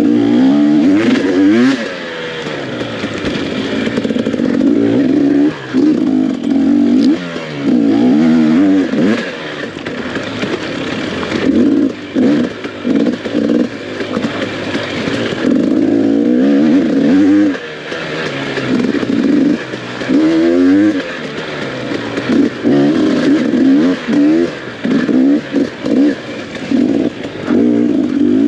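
Enduro dirt bike engine under race load, its pitch repeatedly rising and falling as the throttle is opened and chopped every few seconds.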